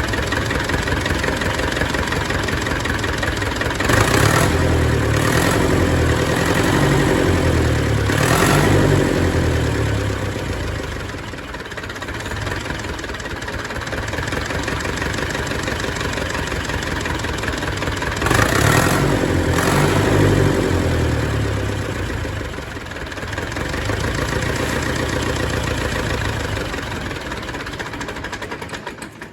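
Zetor 440 tractor's diesel engine running, revved up twice and settling back to idle each time, its repaired injection pump, whose seized plungers have been freed, now letting it run steadily.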